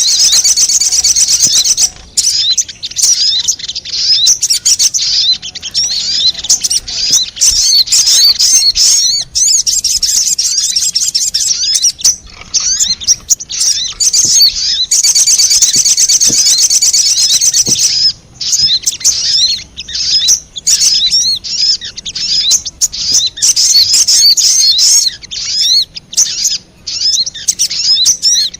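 Lure recording of little spiderhunter (sogon) calls: rapid, high-pitched chattering that runs almost without pause. Short breaks come about 2, 12 and 18 seconds in.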